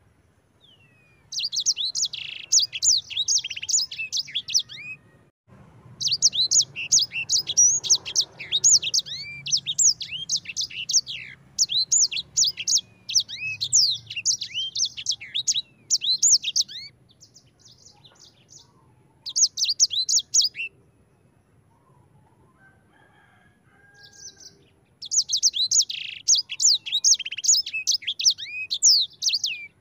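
A sanger, a small cage-bird finch, singing fast, high-pitched trilling song phrases in four stretches with short pauses between; the longest stretch runs about ten seconds.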